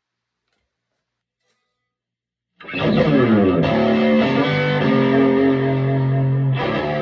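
Near silence, then about two and a half seconds in an electric guitar played through a Vintage Sound Amp (VSA) comes in with sustained, ringing chords, changing chord about a second later and again near the end.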